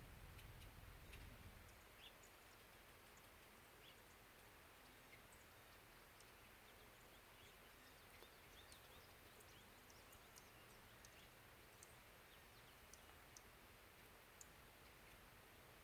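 Near silence: faint outdoor quiet with many tiny, scattered high ticks and short chirps.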